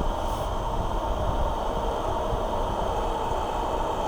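Hair dryer running steadily, a continuous rush of fan and airflow with a steady whine. Its motor has just been lubricated and now runs without the noise it was brought in for.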